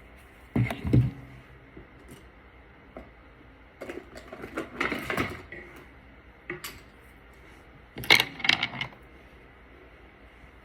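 Makeup products and their cases being handled and set down on a hard surface: four short bursts of clicking and clattering, the loudest about half a second in and again near the end.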